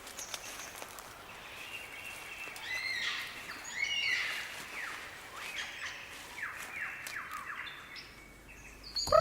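Birdsong: a run of chirps and quick descending whistles from wild birds, loudest about three to four seconds in.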